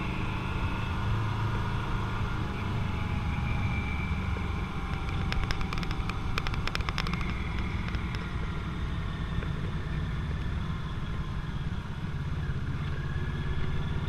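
Motorcycle engine running steadily while riding, with only slight rises and falls in pitch. A quick run of sharp clicks comes about five to seven seconds in.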